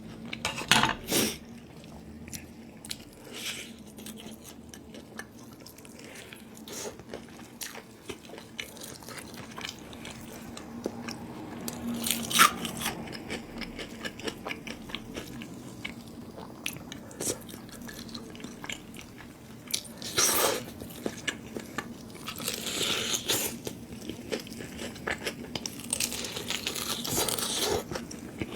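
Close-up eating sounds: biting into and chewing chicken and noodles, with many small crunches and a few louder bites spread through.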